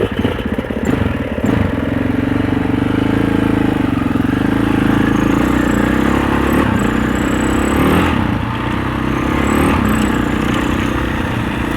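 Husaberg 650 enduro dirt bike's single-cylinder four-stroke engine pulling under load up a steep trail hill climb. It chugs at low revs at first, picks up revs about a second and a half in, and holds there, rising and easing a few times.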